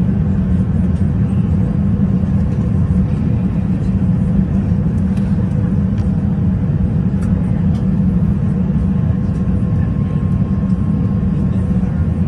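Steady in-flight cabin noise of an Airbus A380: a constant low rush of airflow and engine drone, with a faint steady hum above it.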